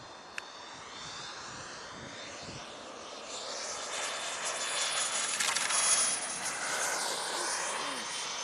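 RC jet's gas turbine whistling as the model flies past, growing louder to a peak about six seconds in and then easing off, its high whine sliding in pitch. A single sharp click about half a second in.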